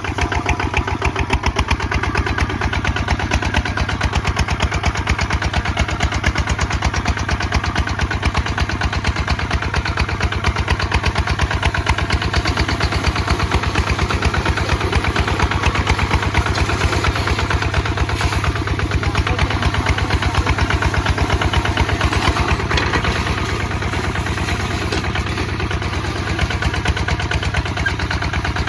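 Kubota ZT 155 DI single-cylinder diesel engine running steadily, a fast, even train of firing beats.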